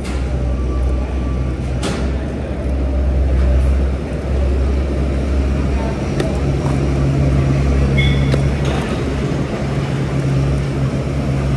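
Steady low rumble of wind and road noise while riding a fat-tire e-bike, with motor traffic around. A brief high tone sounds about two-thirds of the way through.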